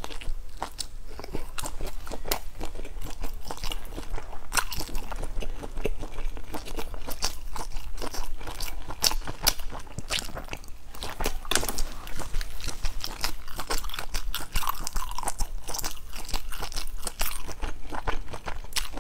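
A person biting and chewing grilled food from bamboo skewers close to the microphone: a steady run of sharp crunches, several a second.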